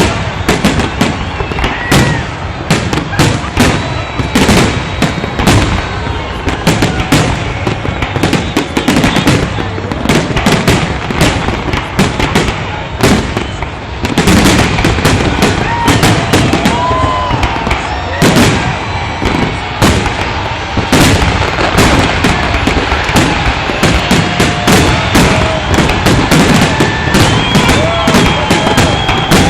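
Fireworks display: a rapid, continuous barrage of overlapping bangs and crackles, several a second, with no pause.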